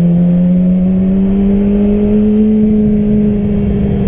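Yamaha R6 sport bike's inline-four engine pulling in a high gear at low revs, heard from the rider's seat. Its pitch climbs slowly and then eases off a little, over a low rumble of wind.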